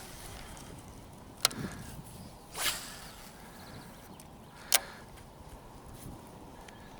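Fishing tackle handled from a kayak: two sharp clicks about three seconds apart, with a brief swish between them, such as a lure being cast.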